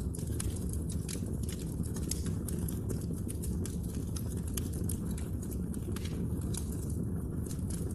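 Wood fire crackling in a fireplace: frequent, irregular sharp pops and clicks over a steady low rumble of burning.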